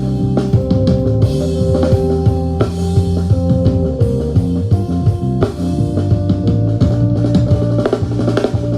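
Recorded band music playing back from a multitrack mix: guitar over drums, with sustained notes and steady hits.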